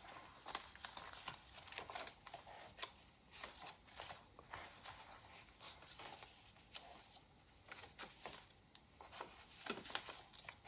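Faint paper rustling and soft page turns as the pages and tags of a handmade junk journal are leafed through, in short scattered bursts.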